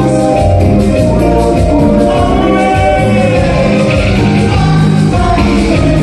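Band music with singing over a steady percussion beat, loud throughout.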